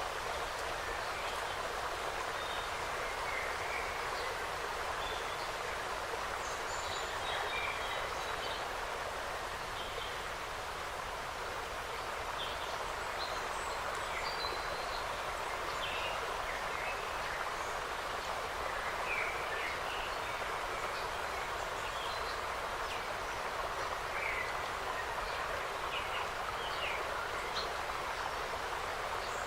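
Forest ambience: many short bird chirps and calls, scattered throughout, over a steady rushing background noise.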